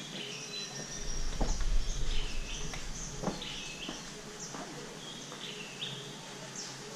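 Birds calling outdoors, a short high chirp repeating about once a second over a background hiss, with a low rumble in the first couple of seconds and a few faint knocks.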